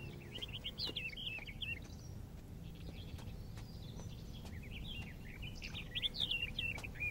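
Small birds chirping and twittering in quick wavering phrases, in two bouts, the second starting about two and a half seconds in, over a faint steady low background noise.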